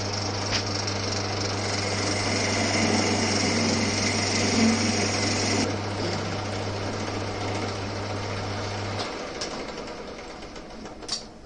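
Old Winfield lathe running while the tool turns down the outside diameter of a metal part, a steady hum under the cutting noise. The cutting stops about five and a half seconds in and the motor hum cuts off about three seconds later, followed by a sharp click near the end.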